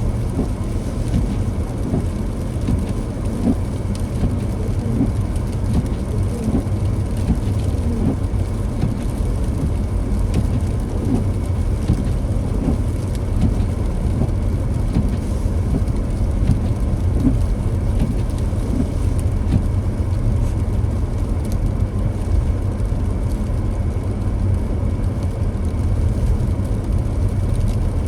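Car driving on a snowy, wet road: a steady low rumble of engine and tyre noise with a light hiss over it.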